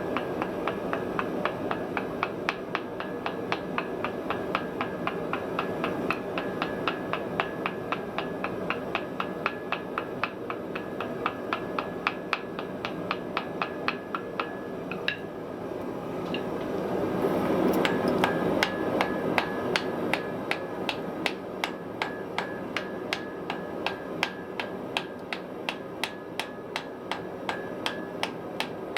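Hammer striking hot iron on an anvil in quick, even blows, about three to four a second, over the steady noise of a forge; the blows pause briefly just past the middle while a louder rush of noise swells, then carry on.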